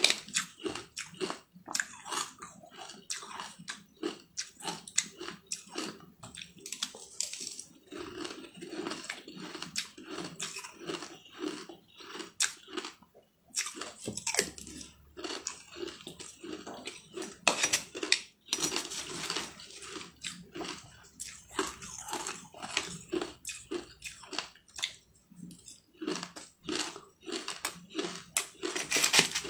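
Close-up crunchy chewing and biting of a mouthful of green shaved ice topped with toasted grains, crackling in irregular bursts with a steady chewing rhythm, and a metal spoon now and then scraping the steel bowl.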